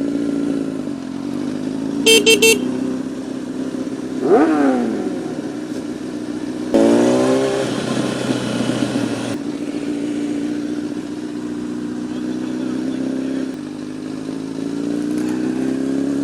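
Honda CBR1000RR sport bike's engine running as the bike pulls away and rides on. Three short horn beeps come about two seconds in, a quick rev near four seconds, and the revs climb from about seven to nine seconds before it settles into steady running.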